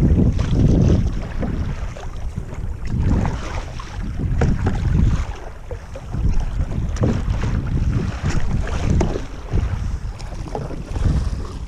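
Gusting wind buffeting the microphone aboard a sailboat under way, surging and easing every second or so, with scattered light ticks and knocks.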